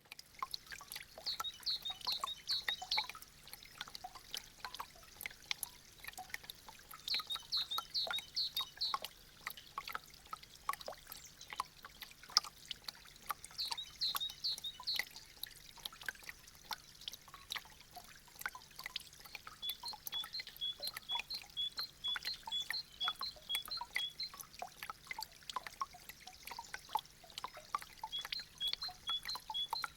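Meltwater dripping from melting icicles: many quick, irregular drips over a light trickle, with short runs of high chirps now and then.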